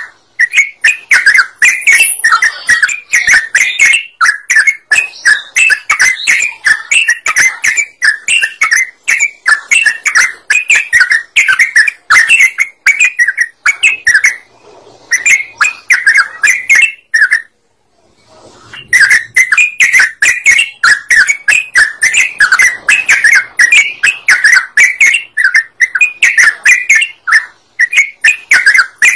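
Yellow-vented bulbul (trucukan) song played as a lure: a loud, rapid, nearly unbroken chatter of notes, with a pause of about a second a little past halfway.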